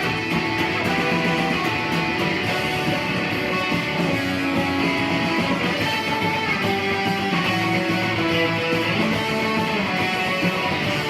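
Electric guitar playing a rock solo.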